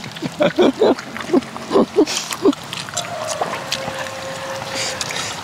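Chewing and smacking of people eating grilled beef sate from skewers, in short irregular bursts with a few brief throaty mouth sounds.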